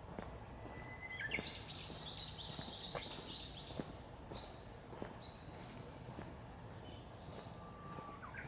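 A songbird sings a thin whistle, then a quick run of about ten high repeated notes, roughly four a second, with a few fainter single notes later. Footsteps tap underneath at about one step a second.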